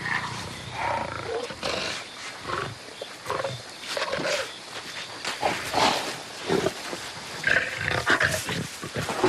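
Lions growling and snarling in short, irregular bursts.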